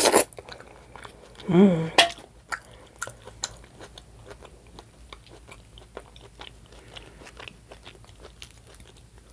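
Close-up chewing and wet mouth clicks of a person eating, with a brief hummed vocal sound about one and a half seconds in.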